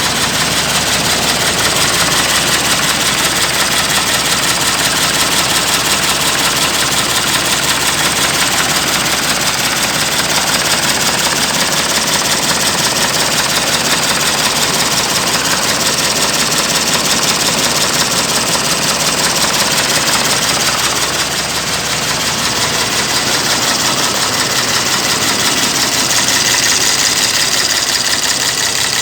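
A 420 hp Iveco diesel engine fitted in a CAMC truck running steadily, with a slight dip in level about two-thirds of the way through.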